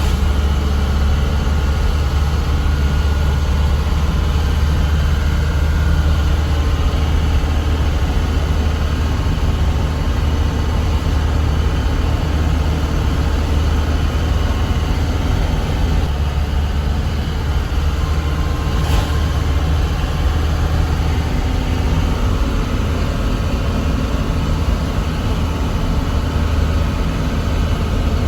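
Truck diesel engine running with a steady, deep drone, together with the even noise of the vehicle. There is one faint tick about two-thirds of the way through.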